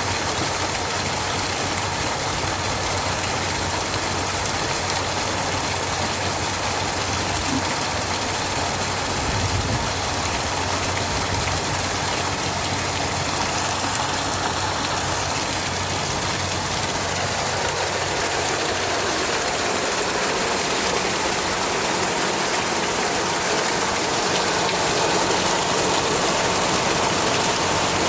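3D-printed vortex-impeller water pump driven by a 750 W, 3000 rpm electric motor, running steadily: a low motor hum under a constant rush of water, getting slightly louder near the end.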